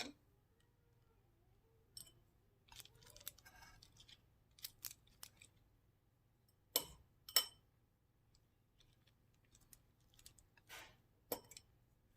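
Scattered soft rustles and a few sharper clicks as a filled spinach tortilla wrap with lettuce is folded and pressed by hand.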